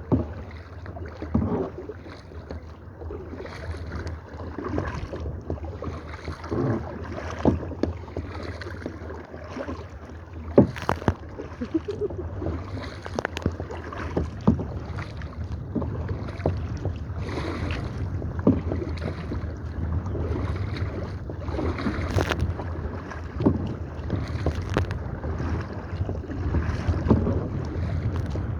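Kayak paddles dipping and splashing in the water, with irregular sharper knocks, over a steady rumble of wind on the microphone.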